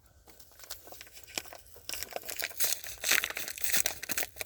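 A bag of cane sugar crinkling as granulated sugar is poured into a beehive's winter feeder box. It is a dense, gritty rustle that grows louder about two seconds in.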